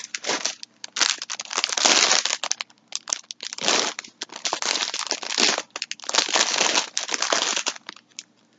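Packaging crinkling and rustling as it is handled, in irregular bursts with short pauses between them.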